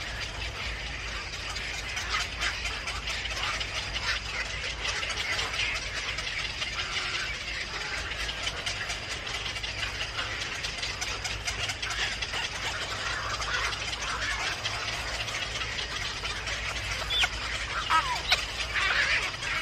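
Birds chirping in a continuous chatter of many short calls, with a few louder rising chirps near the end.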